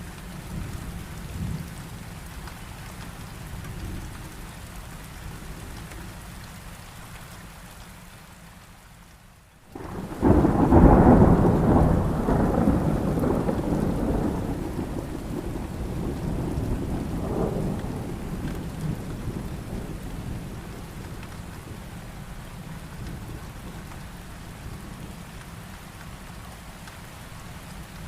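Steady heavy rain with a thunderclap: about ten seconds in, a loud clap of thunder breaks in suddenly and rumbles away over several seconds, swelling once more before it fades back under the rain. Just before the clap the sound drops almost to nothing for a moment.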